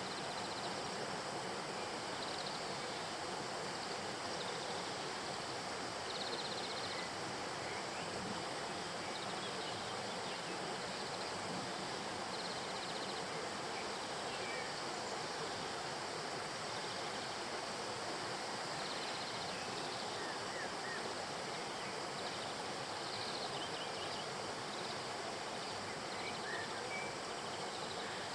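Steady rushing of flowing river water, with occasional faint high chirps and short trills over it.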